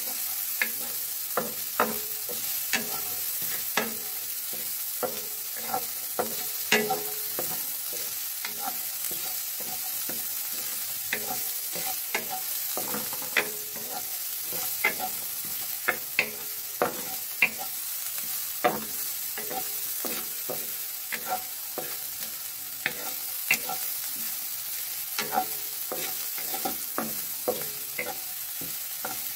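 Chopped onions sizzling in hot oil in a wok, with a wooden spatula knocking and scraping against the pan every second or so as they are stirred.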